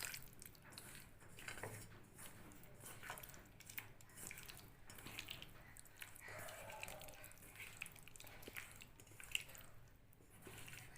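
Faint, irregular wet squelching and smacking of hands mixing and rubbing a sticky egg-and-cornflour marinade into raw boneless chicken pieces in a bowl.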